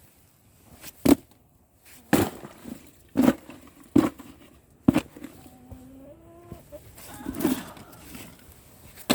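Backyard hens making a few soft, drawn-out calls amid a series of sharp knocks and clatters, about six in all, spaced roughly a second apart in the first half.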